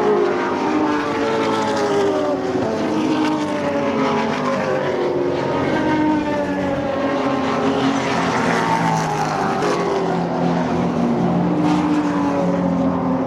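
Several historic Group NC race cars, mostly old V8 muscle cars, running hard. Their engine notes overlap, each rising and falling in pitch as the cars go by.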